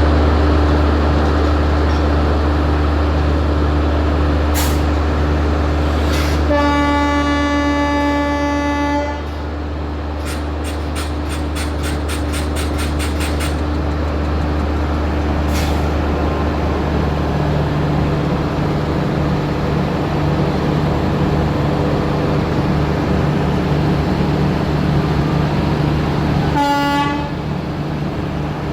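Train running with a steady low rumble; its horn sounds for about two and a half seconds a quarter of the way in, and briefly again near the end. In between comes a quick run of sharp clicks, about four a second.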